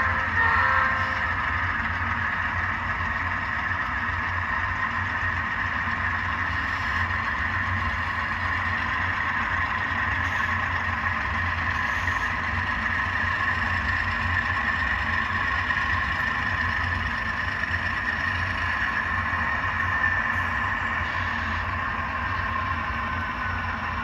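Sound-equipped HO scale locomotives' ESU LokSound V5 decoders playing the steady running sound of a GE 12-cylinder diesel prime mover through their small onboard speakers as the C30-7A models pull a train.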